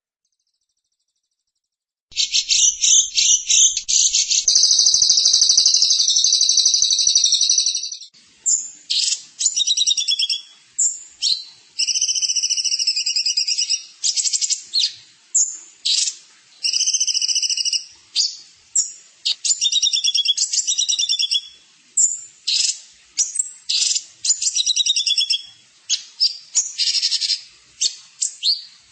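A songbird singing: after about two seconds of silence it breaks into a rapid, continuous high trill for about six seconds, then goes on in short, varied, repeated phrases with brief pauses between them.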